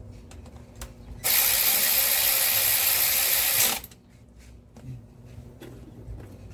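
Power ratchet running a bolt down on the engine's timing cover, one steady burst of about two and a half seconds starting about a second in, with light clicks of tool handling around it.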